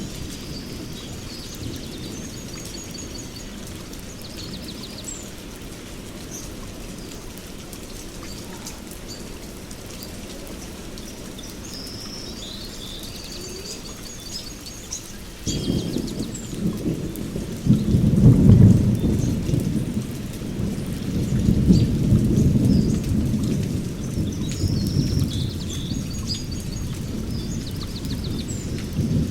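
Steady rain, with a long low roll of thunder coming in about halfway through and swelling twice before easing off. Birds chirp in short high phrases now and then.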